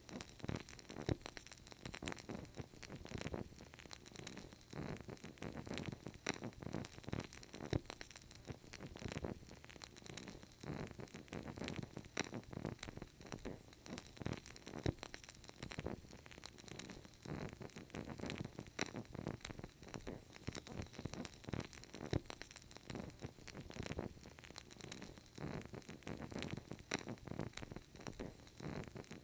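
Burning candle crackling, with dense, irregular small pops and clicks over a soft hiss.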